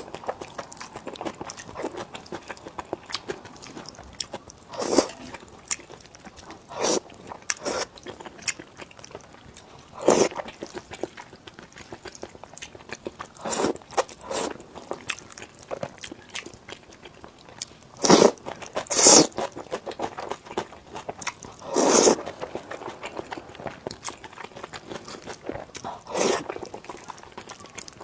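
Close-miked eating: loud crunching bites of crispy food every few seconds, with chewing and small crackles between them.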